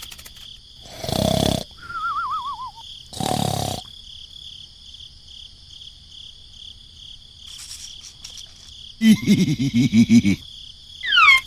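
A string of short sound effects over a steady high whine: two brief noisy bursts with a wobbling, falling tone between them, then a loud pulsing, roar-like growl near the end and a quick falling glide.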